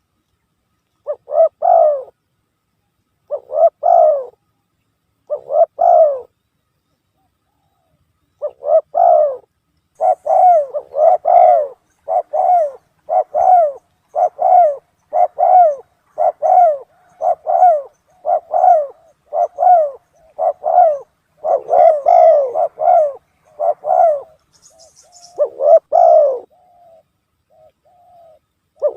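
Spotted dove (tekukur) cooing as a lure call: three separate coo phrases, then a quick run of coos about one a second, with a few more near the end. Faint high chirps from a small bird come in now and then.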